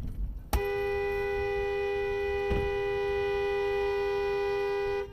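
Car horn held down in one long, steady blast of about four and a half seconds, starting suddenly about half a second in and cutting off near the end; a two-note horn sounding as a chord.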